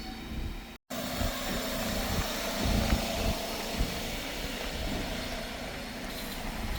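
A large vehicle running with a steady rumble and hum. The sound drops out completely for a moment just under a second in, at an edit cut.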